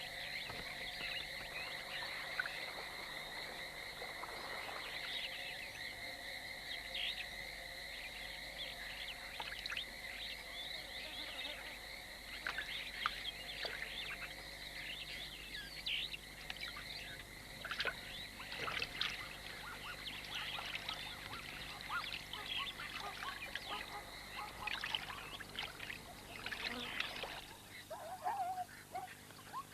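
A chorus of frogs calling around a rain-filled waterhole: a steady high-pitched trilling under many short, overlapping calls. The steady trill drops away near the end, leaving scattered calls.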